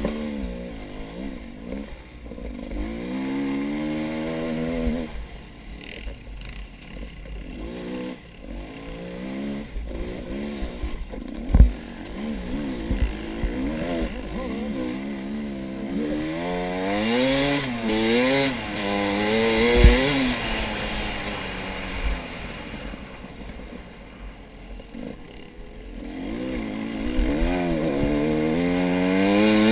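Off-road vehicle engine revving and easing off over and over, its pitch rising and falling as it works over rough ground. There are two short sharp knocks along the way, about a third and two thirds of the way through.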